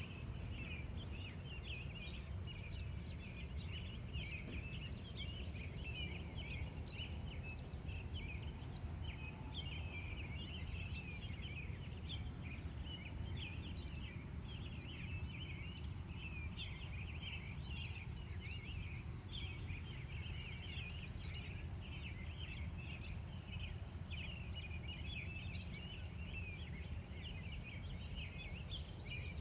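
Pre-dawn outdoor ambience: a steady, unbroken high-pitched insect trill, crickets, over a dense scatter of short high chirps and a low steady rumble.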